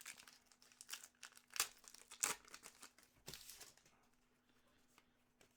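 Hockey card packs and cards being handled: crackly crinkling and tearing of pack wrappers and rustling of cards in a run of short bursts, thinning out in the last couple of seconds.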